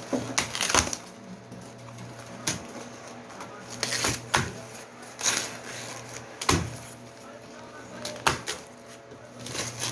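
Microwave's cardboard box and packaging being opened and handled: irregular knocks, scrapes and crackles over a steady low hum.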